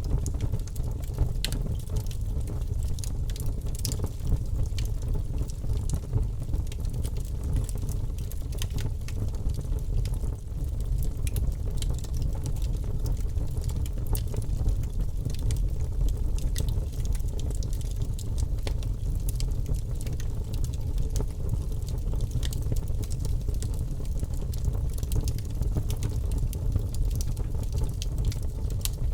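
Wood fire crackling, with frequent small irregular pops and snaps over a steady low rumble.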